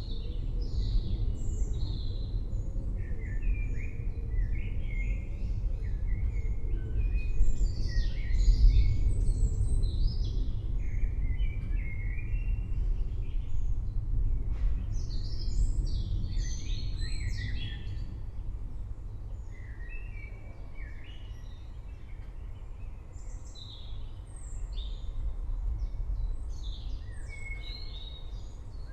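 Several forest birds chirping and singing in short, varied calls over a low rumble that swells about a third of the way in and fades in the second half.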